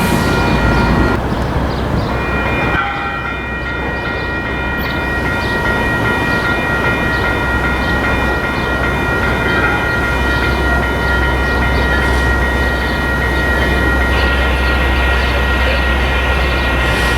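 Metra diesel commuter train moving past at the station: a steady low engine rumble with several steady high-pitched tones held over it.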